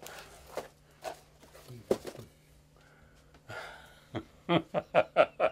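People's voices in a small room: a few unclear words, then a quick run of short syllables near the end, over a faint steady low hum.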